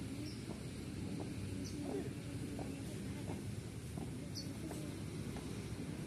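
Birds calling outdoors: a short chirp repeated about every 0.7 s, with a few fainter, higher chirps between, over a steady low background hum.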